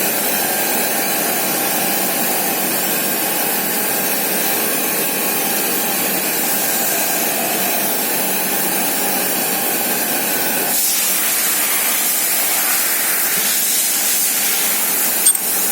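Surface grinder running, a steady hiss with a constant whine in it. About two-thirds of the way through, the sound changes to a brighter, higher hiss, and a couple of sharp knocks come near the end.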